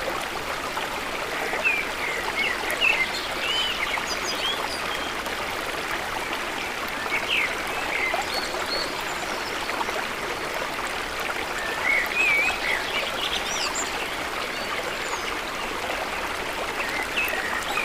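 Water running steadily along a village irrigation canal. Short birds' chirps come and go over it, most clearly about two seconds in, around seven seconds and around twelve seconds.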